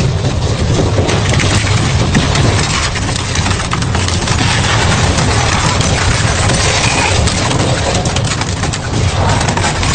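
Industrial double-shaft shredder running under load: a steady low drone under a dense, unbroken crackle of cracking and crunching as material is torn apart between the shafts.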